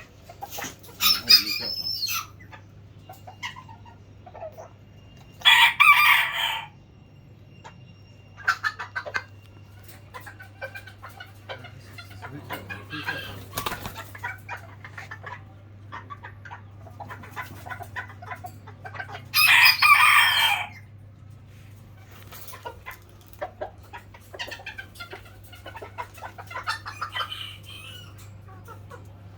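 Chickens: a rooster crows three times, loud calls of about a second each, with shorter, fainter clucking between the crows.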